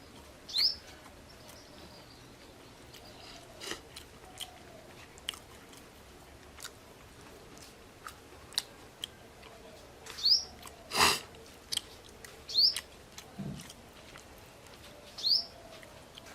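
Close-up chewing and crunching of food, with scattered small clicks and a louder brief crunch about eleven seconds in. A bird chirps four times in short rising chirps.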